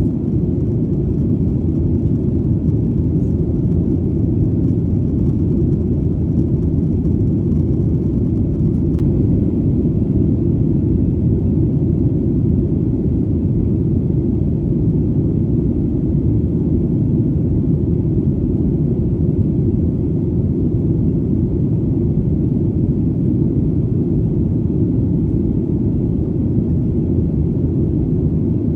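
Airplane in flight: a steady, deep rumble that holds an even level, with no change in pitch.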